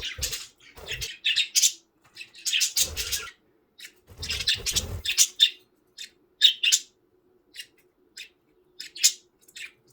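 Budgerigars chirping and chattering in quick clusters of short high chirps, with a few low thuds among them.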